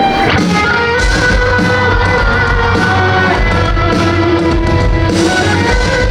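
Live rock band playing with electric guitar and drum kit; the kick drum comes in about a second in and keeps a steady beat.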